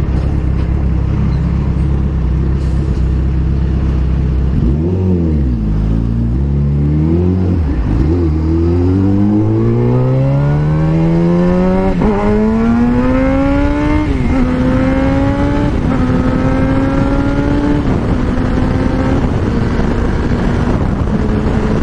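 Yamaha FZ1 motorcycle's inline-four engine accelerating hard through the gears. Its pitch rises and drops sharply at each upshift: a few quick shifts, then two longer pulls. About two-thirds of the way in it settles into a steady high-speed cruise.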